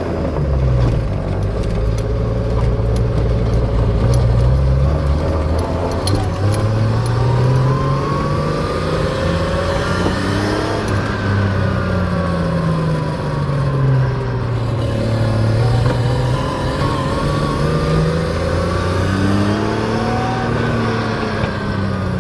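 RB25DET turbocharged straight-six of a Nissan 240SX heard from inside the cabin while driving. The engine note rises and falls several times as it accelerates and lets off. It is noisy because the shift boot insulation is off.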